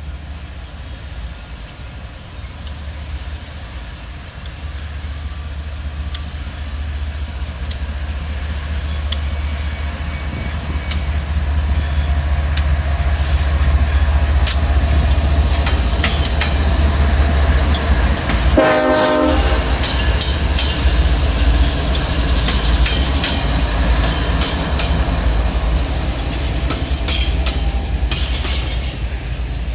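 A train approaching and passing, its rumble growing louder through the first half and staying loud, with wheels clicking over the rail joints. One short horn blast of about a second sounds about two-thirds of the way through.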